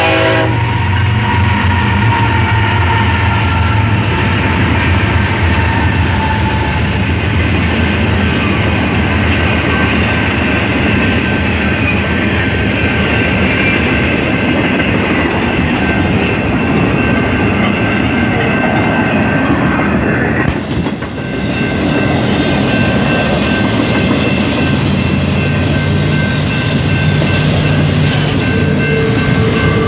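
A BNSF freight train rolling past close by: the lead GE Evolution-series diesel locomotives go by first, then a long string of double-stack intermodal container cars, their wheels on the rail making a steady, loud rolling noise throughout.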